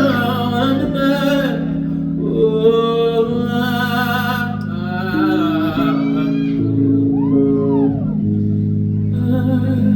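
Live band music: sustained chords with a melodic line over them that wavers and bends in pitch, including a rising-and-falling glide near the end, without sung words.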